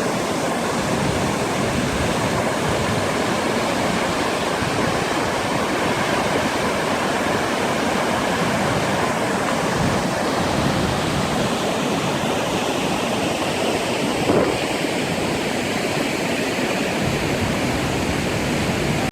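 Steady, unbroken rush of falling water from a large waterfall.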